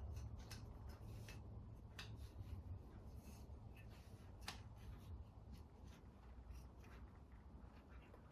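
Faint rubbing and scattered light clicks of a urethane band saw tire being worked by hand onto the saw's wheel, over a low steady hum.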